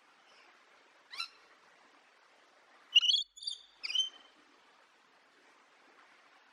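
Parrot calling: one short rising call about a second in, then a quick run of three louder calls near the middle.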